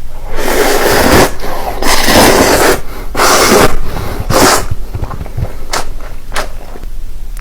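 Close-miked eating sounds: four loud, noisy crunching bursts of under a second each, followed by a couple of sharp clicks near the end.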